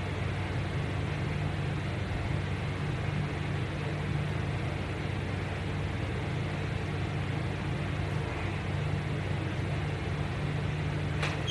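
Steady low hum with an even hiss over it, unchanging throughout, with a faint click near the end.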